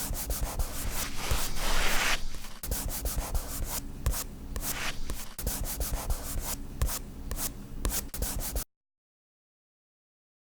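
Soft pastel chalk rubbing and scratching across paper in quick, irregular strokes, cutting off abruptly near the end.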